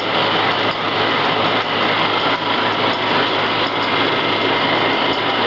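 A small machine running steadily, with a constant low hum under an even mechanical noise and a few faint ticks.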